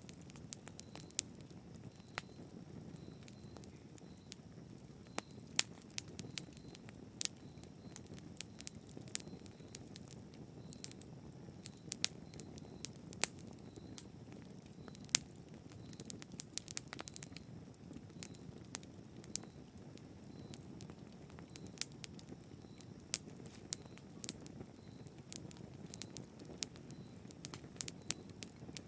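Wood fire crackling in a fireplace: frequent, irregular sharp pops and snaps over a soft, steady low rush of the flames.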